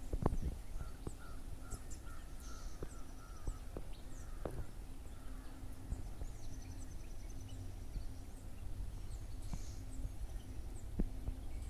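Birds calling in the open: a run of about eight short repeated notes in the first few seconds and scattered high chirps throughout, over a low rumble and a faint steady hum.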